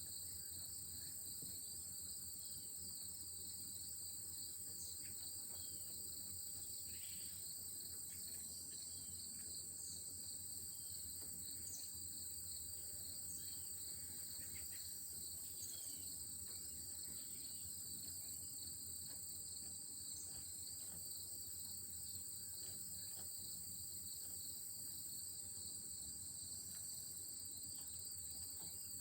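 Late-summer chorus of crickets: a steady high trill over a second, lower song that pulses rapidly and evenly. Now and then a few faint short bird chirps sound beneath it.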